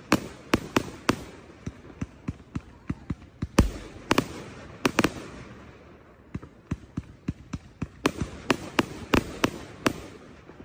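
Consumer fireworks going off in a fast, irregular run of sharp bangs and crackling, with the heaviest, deepest boom about three and a half seconds in. The bangs thin out for a couple of seconds past the middle, then come quickly again and die away near the end.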